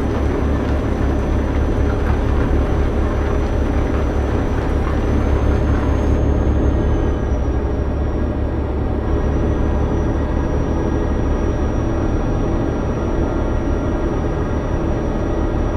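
Heavy truck engine running at a steady, unchanging low drone, with a faint high whine above it. The upper hiss drops away about six seconds in.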